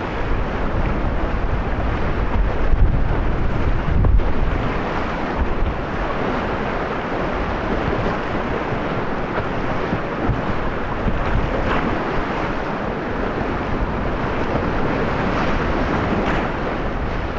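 Whitewater rapids rushing steadily, with wind buffeting the microphone, heaviest around three to four seconds in.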